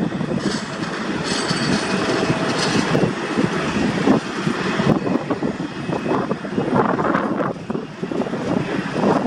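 Jet airliner engines running: a continuous, even rushing noise that swells and eases slightly.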